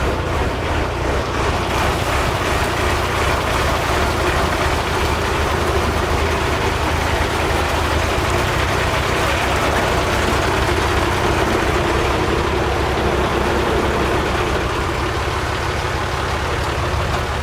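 A machine running steadily, with a constant low hum under an even noise.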